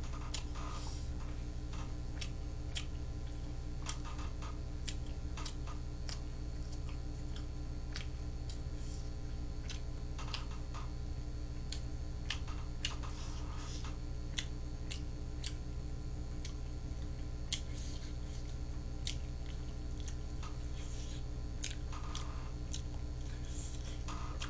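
A person chewing food, with scattered small clicks and mouth sounds over a steady low hum.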